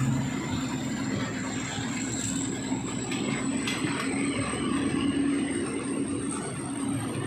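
Passenger coaches of a Thai diesel-hauled train rolling slowly past as the train pulls out of the station: a steady rumble of wheels on rail with a low hum. A thin high whine climbs slowly in pitch throughout, and a few faint clicks come near the middle.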